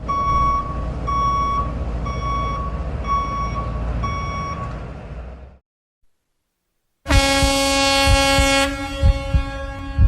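A vehicle backing up: a short single-pitch beep repeating about every 0.7 s over a low engine rumble, fading out. After a brief silence, a loud, long horn blast starts about seven seconds in, with low knocks beneath it.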